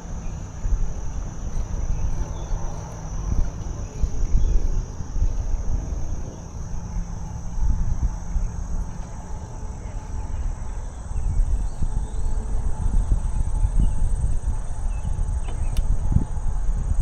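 Insects singing steadily in one high, continuous tone over a louder low rumble of wind and riding noise from a moving bicycle.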